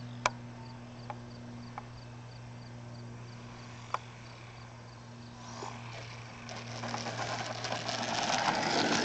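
Electric motor and propeller of a Super Cub LP radio-controlled plane humming steadily as it comes in to land, with a few faint clicks. About five seconds in, a rough rushing noise builds and is loudest near the end.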